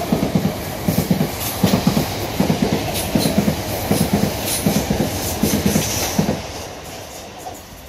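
South Western Railway Class 455 electric multiple unit passing fast without stopping: a rhythmic clickety-clack of its wheels over the rail joints, dying away a little after six seconds in as the last coach goes by.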